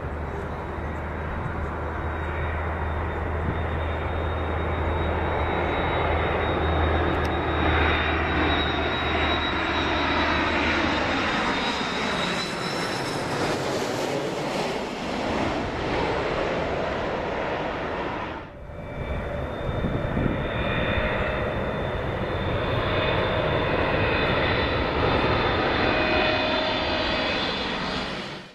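Jet airliner engines running loud, with a high steady whine; around the middle the sound sweeps down in pitch as the aircraft passes the listener. After a brief drop about two-thirds through, the engine noise and whine carry on.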